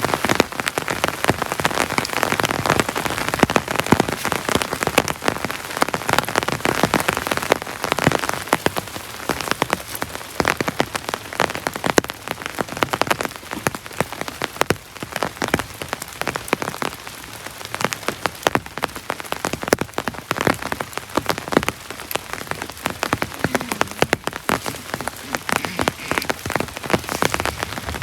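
Heavy tropical rain with a dense patter of individual drops striking a surface. It eases slightly after the first several seconds.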